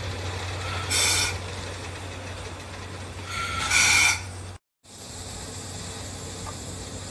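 Two blasts of steam from a C11 steam locomotive, a short one about a second in and a longer one in the middle, over a steady low hum.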